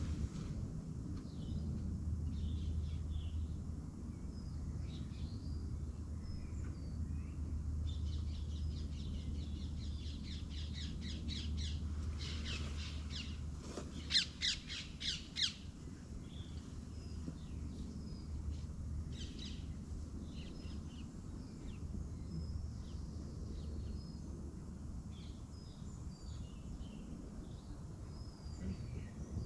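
Birds calling outdoors: scattered short chirps throughout, a fast run of repeated notes, and a burst of loud harsh squawks around the middle, over a steady low hum.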